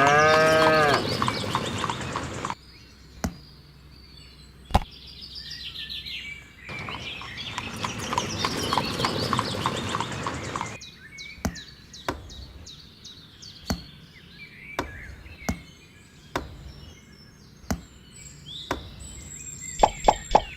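A horse whinnying once at the start over a quick clatter of clip-clopping hooves, with a second stretch of hoof clatter in the middle. Single sharp knocks and clicks are scattered between, and a fast run of ticks begins near the end.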